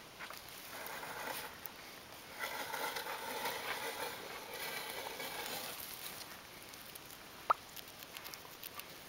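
Soft rustling and crackling, loudest in the middle, with one sharp click near the end.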